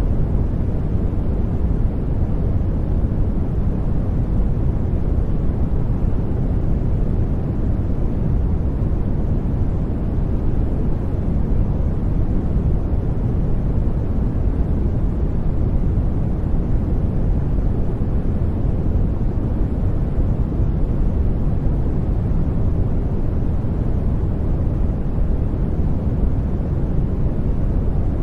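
Steady, unbroken generated noise, strongest in the deep low end and thinning toward the highs: an even, deep rush that never changes.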